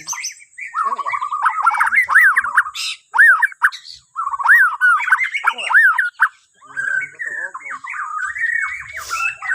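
A Bornean white-rumped shama (murai batu) singing a rapid run of varied whistled and chattering phrases, broken by a few brief pauses.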